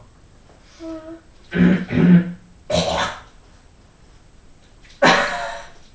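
A person making short nonverbal vocal sounds, throat-clearing-like, in several separate bursts: a brief pitched one, two loud throaty ones close together about two seconds in, another a second later, and a long breathy one near the end.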